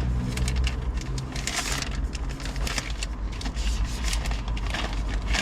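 Small items and pouches being handled and packed away: rustling with light clicks and knocks, over a steady low rumble.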